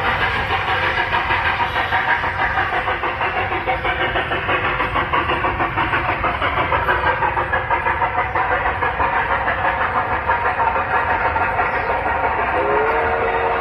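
Steam locomotive chuffing in a fast, even rhythm, with a steam whistle starting to sound near the end.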